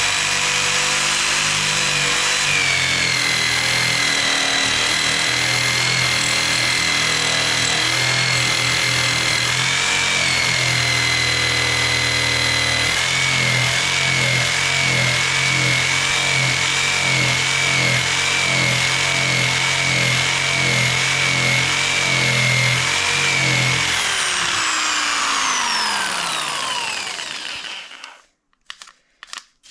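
Electric jigsaw cutting slowly through a thick wooden log, thicker than the blade comfortably handles, its motor running steadily with a fast wavering pulse from the blade's strokes. About 24 seconds in it is switched off and winds down in falling pitch.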